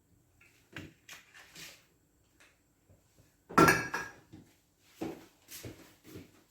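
Kitchen handling noises: a scatter of light knocks and clatters of cookware and utensils, with one louder clunk about three and a half seconds in.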